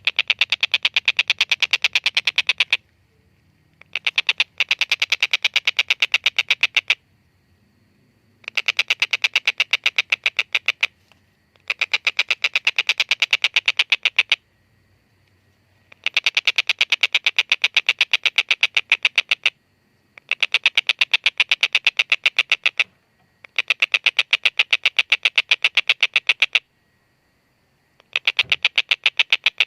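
Kingfisher known as tengkek buto calling: long runs of rapid, evenly repeated 'kek-kek-kek' notes, the typical long 'ngekek' call, about eight runs with short pauses between them.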